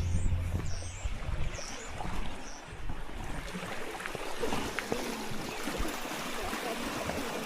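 Water trickling and lapping at the shore, a steady rushing wash with small irregular splashes and clicks. Background music fades out about a second in, and a few short high chirps sound near the start.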